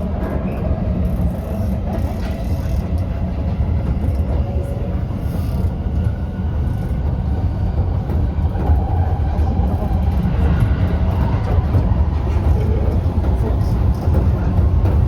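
Electric commuter train running along the track: a steady low rumble of wheels and running gear, with faint humming tones above it.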